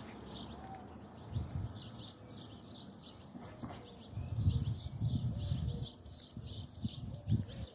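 Small birds chirping: a steady run of short, high chirps, each falling in pitch, about two a second, over low rumbling noise that is loudest in the middle.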